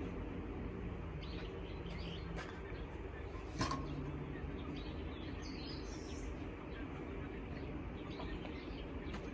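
Birds chirping now and then over a low steady outdoor hum, with a dove cooing.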